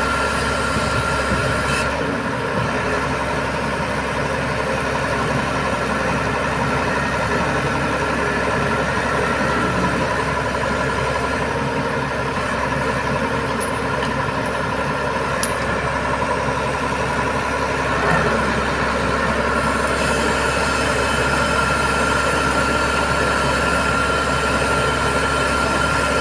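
Heavy diesel engine running steadily at idle, with a slight change in its sound about 18 seconds in.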